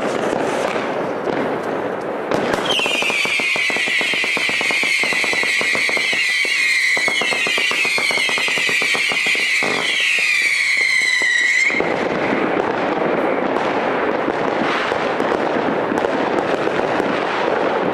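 New Year's fireworks crackling and banging. About two seconds in, a firework starts a shrill, wavering whistle over dense crackling. It runs for about nine seconds and cuts off suddenly.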